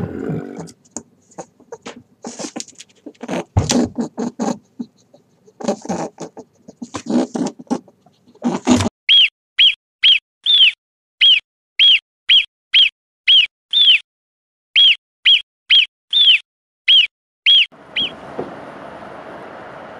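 A marmot giving a long run of sharp alarm whistles, about two a second, each a short high note that arches and falls, after several seconds of scattered short noises. Near the end the whistling stops and a steady noisy background begins.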